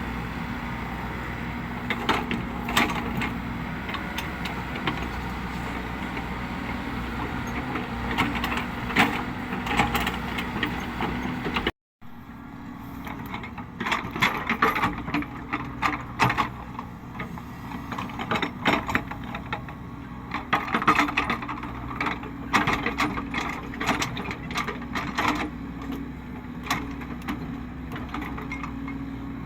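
Cat 307E2 mini excavator working: its diesel engine runs steadily under many irregular metallic clanks and knocks from the machine. The sound cuts out for a moment about twelve seconds in.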